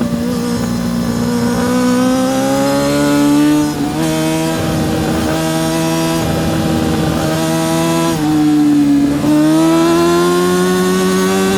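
Yamaha R6 (RJ03) 600cc inline-four sportbike engine revving high under racing load, climbing in pitch as it accelerates. The pitch steps down briefly about four seconds in, drops and sags between about eight and nine seconds in, then climbs again.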